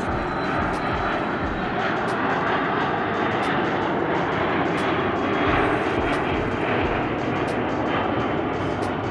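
Jet airliner engines, an Airbus A380 on its landing approach, giving a loud steady jet rumble with a faint whine held through it.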